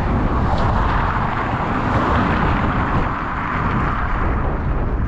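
Loud, steady rumbling rush of an intermodal freight train led by a diesel locomotive, with wind buffeting the microphone.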